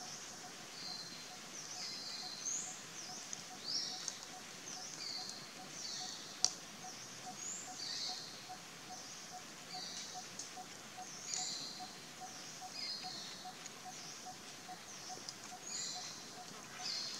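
Birds chirping in forest: short high calls repeating every second or so, over a faint, evenly pulsing tone, with one sharp click about six seconds in.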